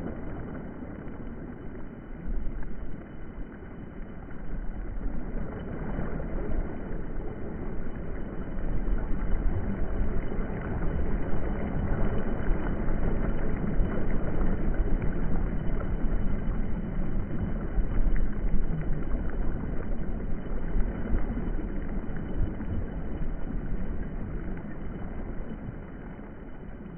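Low rumble of a passing vehicle, building to a peak about halfway through and fading away near the end.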